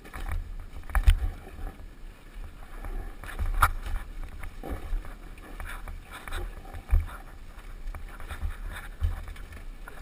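Dirt bike riding down a rocky trail: a low, uneven rumble with irregular sharp knocks and rattles as the bike jolts over stones.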